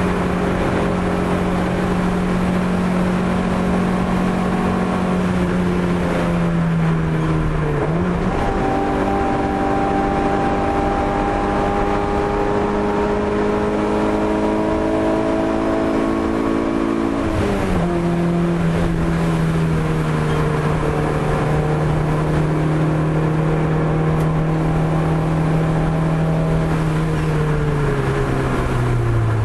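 Opel Corsa A GSi's engine running hard while lapping, its pitch climbing slowly under load. The pitch changes sharply twice, about a third and about two thirds of the way through, as gears are changed, and falls away near the end as the throttle eases off.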